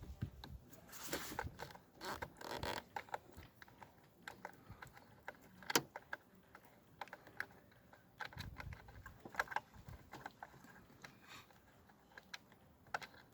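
Scattered small clicks and light metallic rattles of hand tools and parts being handled, with one sharper click about six seconds in.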